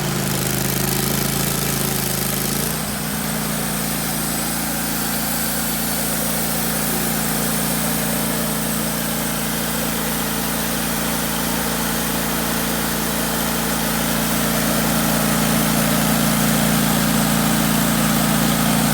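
Wood-Mizer LT15 Wide sawmill's engine running steadily. Its tone shifts slightly about three seconds in, and it gets a little louder near the end.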